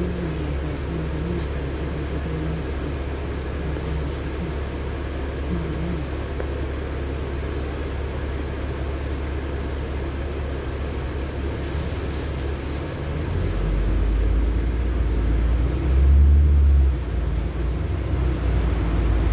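A LiAZ-6213.65 articulated diesel bus running in traffic, heard from inside the cabin: steady engine and road rumble. About two-thirds of the way through, the deep rumble grows louder, with a brief stronger surge shortly after.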